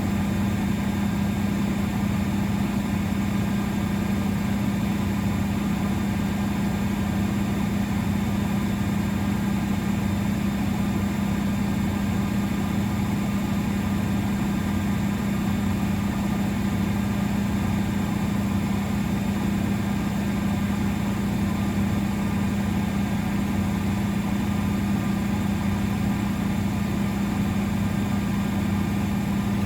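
Miele Novotronic W921 front-loading washing machine running steadily, a constant motor hum with no change in speed.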